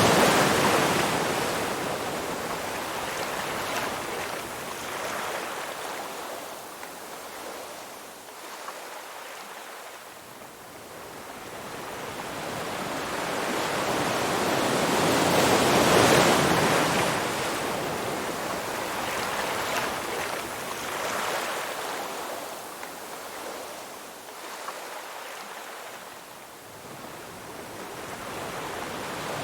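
Ocean waves surging onto a shore, a steady wash that swells to a loud break about every fifteen seconds and fades away between breaks.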